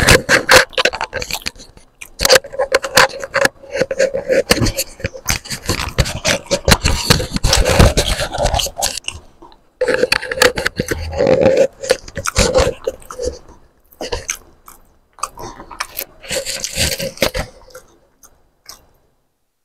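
Close-miked chewing and biting of a mouthful of egg masala: crunchy, scraping mouth sounds in bursts with short pauses, going quiet near the end.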